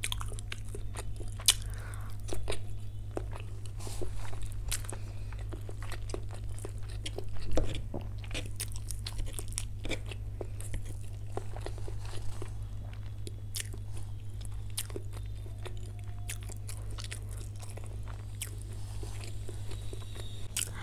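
Close-miked chewing and mouth sounds of a person eating, with many small irregular clicks and crisp crackles and a few louder bites. A steady low hum runs underneath.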